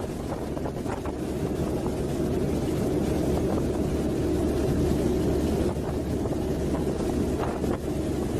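Wind buffeting the microphone over a steady low rumble, swelling slightly in the middle and easing near the end.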